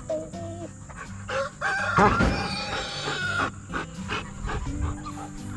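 A chocolate Marans rooster crows once, about two seconds in, the call lasting about a second and a half.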